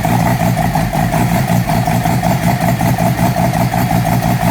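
Mazda RX-3's two-rotor 13B bridge-port rotary engine idling on its first startup, with a choppy, uneven idle that pulses rapidly in loudness.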